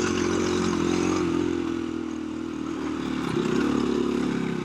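KTM 350 EXC-F single-cylinder four-stroke dirt bike engine running under throttle on a trail ride. It eases off a little about two seconds in, then builds again.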